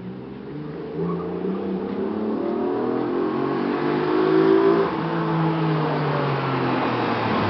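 Opel Astra G's 3.2-litre Z32SE V6, breathing through an aftermarket dual exhaust with an X-pipe and two Turboworks silencers, accelerating towards the listener. The engine note rises in pitch, drops about five seconds in, then carries on lower as the car gets louder on its approach.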